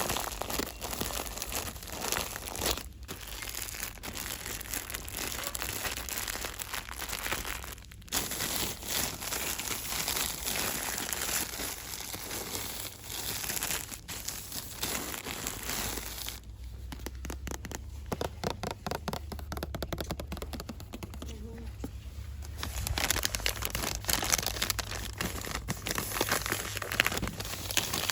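Close-up crinkling and rustling of packaging handled by hand, with a run of quick, evenly spaced strokes in the middle.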